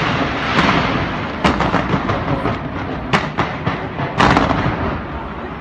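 Fireworks going off: a steady crackling hiss with sharp bangs every half second to second, the loudest about three and four seconds in, easing off near the end.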